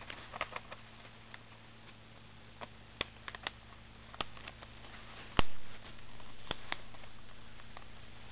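A square sheet of origami paper being folded and creased by hand: scattered light paper taps and crackles, with one sharper knock about five seconds in, over a steady low hum.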